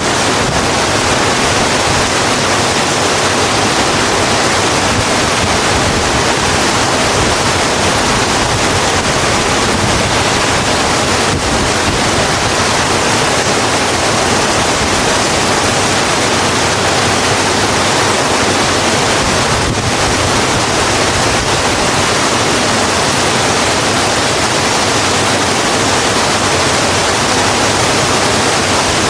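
Steady, heavy rain falling on a road, an even hiss with no letup.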